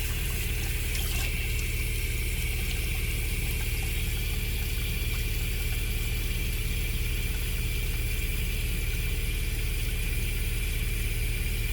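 Steady mechanical hum over the hiss of water running from a tap while a newly installed tankless gas water heater runs and heats the flow.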